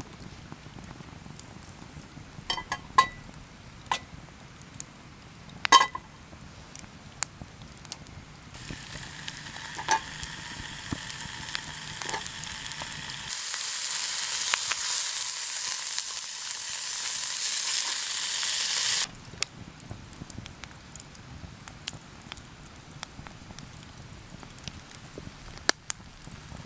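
Food sizzling in a pan: the sizzle starts about a third of the way in, grows much louder, then cuts off suddenly. A few sharp clicks and knocks come before it.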